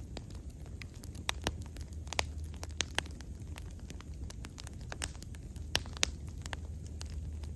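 Wood bonfire burning with irregular sharp crackles and pops over a low steady rumble.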